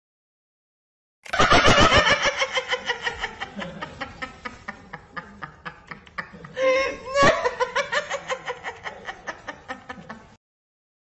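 Laughter sound effect: a voice laughing in quick, rhythmic bursts that start loud and gradually fade, swelling briefly again about seven seconds in. It starts abruptly after a second of silence and stops about a second before the end.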